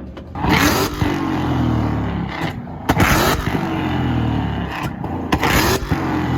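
A tuned Ford Mustang's engine is revved hard on a two-step limiter three times, with sharp exhaust bangs and crackles at each rev. The engine note falls away after each burst.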